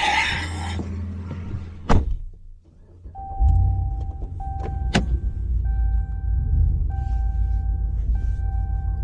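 A Bobcat skid-steer's diesel engine starting a little over three seconds in and settling into a steady low running rumble, with a high warning beep repeating in long pulses about once a second. A sharp click comes about two seconds in and a sharp knock about five seconds in.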